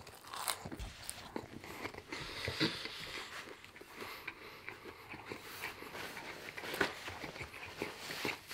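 Close-miked chewing of a mouthful of food: an irregular run of small clicks and crackles from the mouth.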